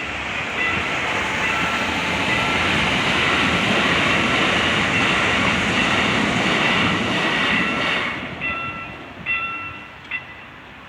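ITX-Maeum electric multiple-unit train passing over a level crossing at speed, its steady rush of wheels on rail loud for about eight seconds before fading quickly. Over it the crossing's warning bell sounds in repeated high-pitched chimes, continuing alone briefly after the train has gone and stopping near the end.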